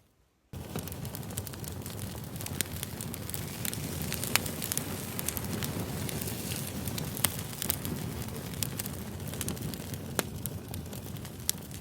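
Campfire burning: a steady low rush of flames with scattered sharp crackles and pops of burning wood. It starts abruptly about half a second in, after a moment of silence.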